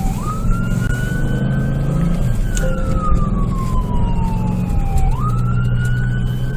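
Police car siren wailing, its pitch jumping up, then climbing and falling slowly in a cycle of about five seconds, over the steady low drone of the moving car.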